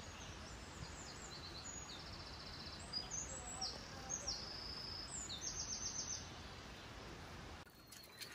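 A songbird singing a string of short, high, quick trilled phrases over a steady outdoor rush of background noise, which drops away suddenly near the end.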